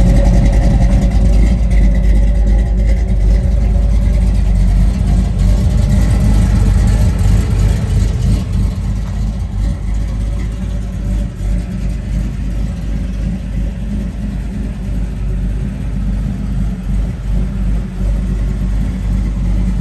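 1968 Chevrolet Camaro SS's V8 idling steadily, a deep low exhaust note. It is loudest at first, close to the exhaust outlets, and grows softer from about eight seconds in as it is heard from further away.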